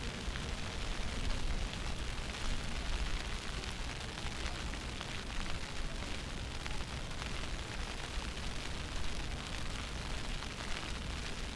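Snowstorm wind buffeting the microphone: a steady, fluttering low rumble under an even hiss.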